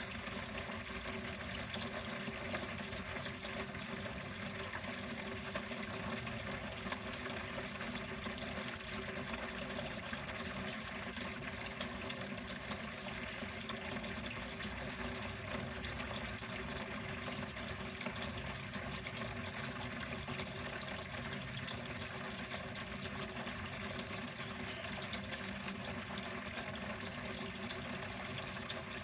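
Water flowing steadily at home, an even, unbroken rush of running water.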